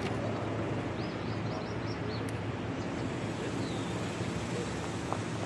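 Outdoor ambience: a steady low hum like an idling vehicle, with birds chirping, including a quick run of rising chirps about a second in.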